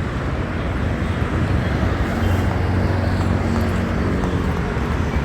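Steady low rumble of a running vehicle with road noise.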